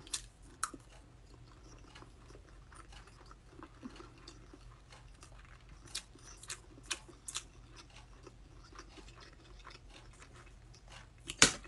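Quiet chewing of a mouthful of sardines, with a few short sharp clicks scattered through it and a louder pair near the end.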